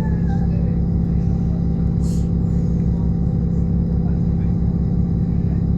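Railway diesel engine running steadily: a loud drone with a strong hum and a fast, even pulsing underneath. A short hiss comes about two seconds in.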